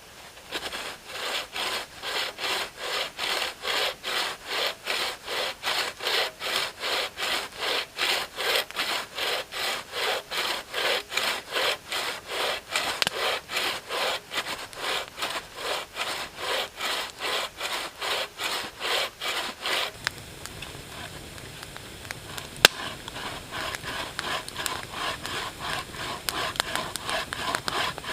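Hand saw cutting through birch wood in steady back-and-forth strokes, about three a second. The sawing breaks off for a few seconds with a single sharp click, then starts again near the end.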